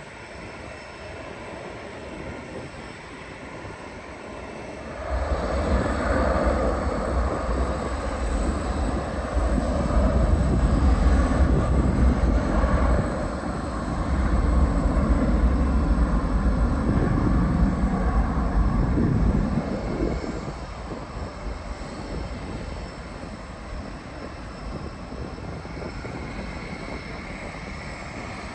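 A landing airliner's jet engines passing by as a low, steady rumble. It comes up suddenly about five seconds in, stays loud for some fifteen seconds, then fades back to a quieter background.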